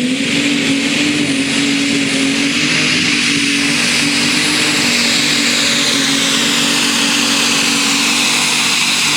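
A super stock pulling tractor's turbocharged diesel engine running flat out under load as it drags the sled. It holds one loud, steady high-revving note with a high whine over it.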